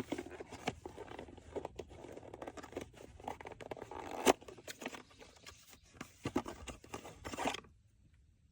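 Handling of auto-parts packaging: crinkling and rustling with scattered clicks and scrapes, cutting off suddenly near the end.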